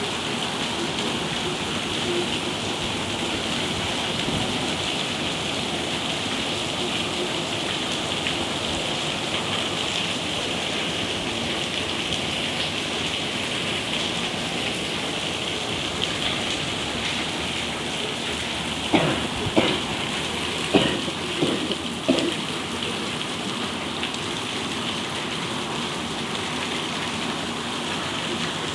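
Steady rain, with a quick run of about five sharp knocks about two-thirds of the way through.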